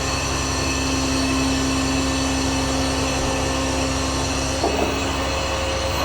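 Aerial ladder fire truck's engine and hydraulic ladder drive running steadily as the steel ladder is retracted and swung back toward its bed, a constant mechanical hum with a steady whine. About four and a half seconds in the whine shifts higher, with a couple of light knocks.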